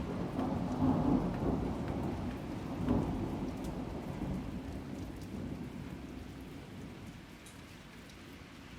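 Thunder rumbling, swelling about a second in and again about three seconds in, then dying away, with rain pattering throughout.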